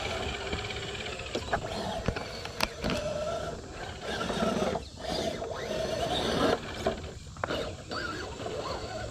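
Electric motors and geared drivetrains of 6x6 RC crawler trucks whining as they crawl over the trail, with scattered clicks and knocks from the trucks working over the ground.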